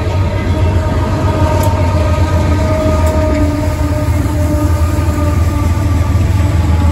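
Loaded coal cars of a long Union Pacific coal train rolling slowly past: a steady, loud low rumble with a few faint drawn-out tones wavering above it.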